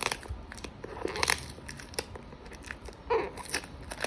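Product packaging handled during unboxing: irregular crinkling and crackling with a few sharp clicks, loudest about a second in and again about three seconds in.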